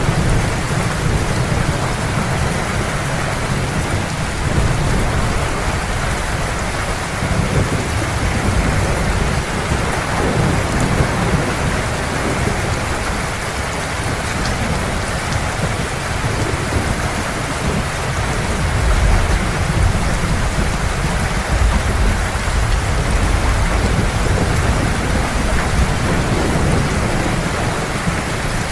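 Heavy rain falling steadily with a continuous low thunder rumble underneath, swelling louder about two-thirds of the way through.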